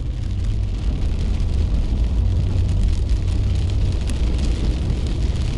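Steady rain noise with fine patter over a constant low rumble.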